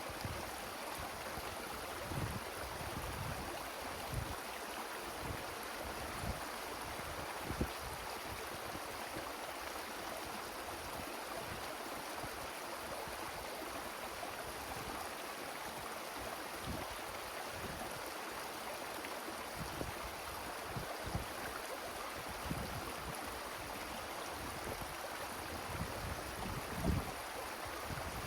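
Wind blowing through forest trees: a steady rushing noise, with irregular low thumps of wind buffeting the microphone.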